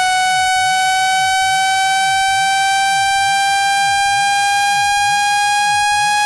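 Speaker-cleaning tone: a loud, buzzy electronic tone rich in overtones, slowly rising in pitch, played to vibrate the speaker membrane and push out water and dust.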